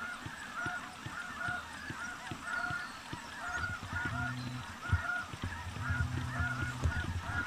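A flock of snow geese honking, many short high calls overlapping continuously. A low steady hum and a few low thumps come in about halfway through.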